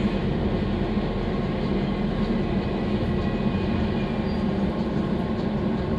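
Docklands Light Railway train running, heard from inside the front of the car: a steady rolling rumble of wheels and traction with no breaks.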